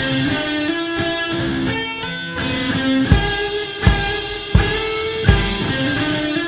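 Rock music: a guitar playing sustained chords over a steady bass-drum beat.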